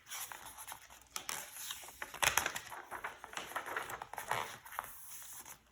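Paper rustling and crinkling in irregular bursts, the pages of a picture book being handled and turned.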